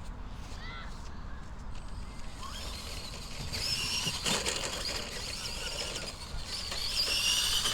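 Electric RC monster truck running, its motor and gears whining and wavering up and down in pitch with the throttle from about three seconds in, louder near the end.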